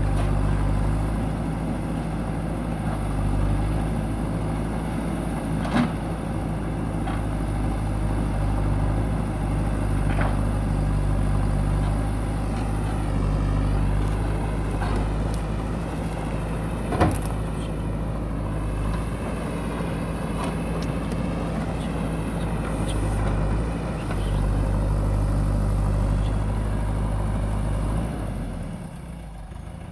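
JCB backhoe loader's diesel engine running steadily under work, with a few sharp knocks, the loudest about halfway through. The engine sound drops away near the end.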